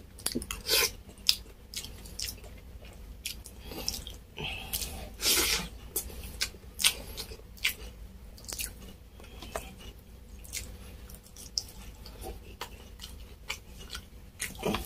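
Wet chewing and mouth smacks of a man eating balbacua beef. Short smacks and clicks come at irregular intervals, the loudest about five seconds in.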